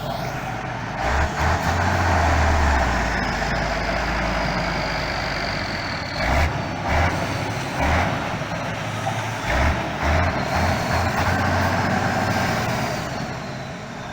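Off-road trial truck's diesel engine working hard, the throttle opened in repeated surges over a steady rumble.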